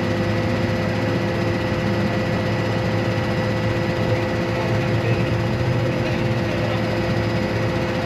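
A vehicle engine running steadily at an unchanging pitch, a constant drone with a fixed hum.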